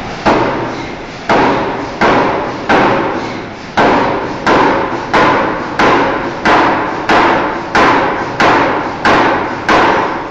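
Forging hammer striking a steel bar being forged: a regular series of about fourteen heavy blows, roughly one and a half a second. Each blow rings and dies away before the next.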